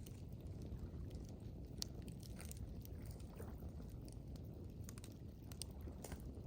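Campfire crackling: scattered sharp pops and snaps of burning wood over a steady low rumble.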